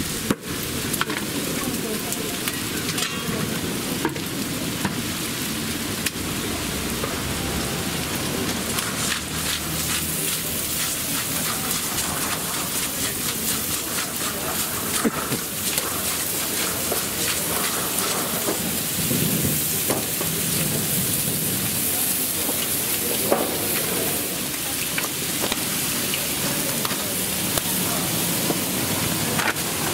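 Tartiflette frying in a pan: a steady sizzle with many small crackles and pops throughout.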